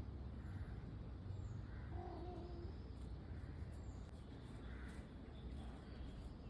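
Faint outdoor ambience: a steady low rumble with a few faint, short, high chirps now and then, and one brief faint call about two seconds in.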